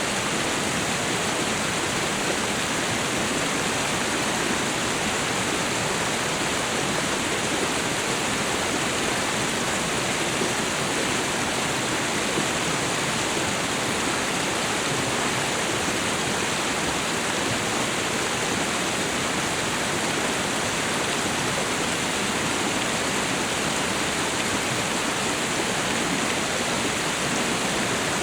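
Tropical waterfall and river: a steady, unbroken rush of falling and flowing water.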